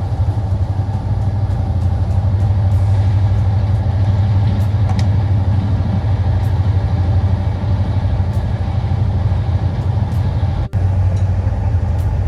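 Passenger train running, heard from inside the carriage: a steady low rumble with faint scattered ticks, broken once by a brief gap near the end.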